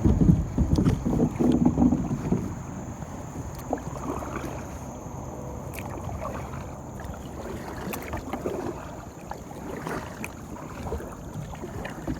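Water splashing and lapping around a kayak on a river, louder in the first two seconds, with wind on the microphone.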